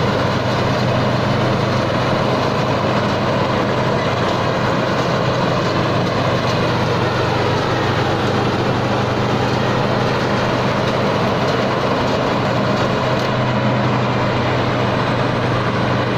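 Tai Seng rice combine harvester's engine running steadily under load as it harvests through deep mud.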